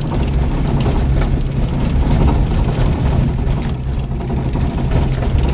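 Car driving on a dirt road: the engine runs steadily under a rumble of tyre and road noise, with frequent small knocks and rattles from the rough surface.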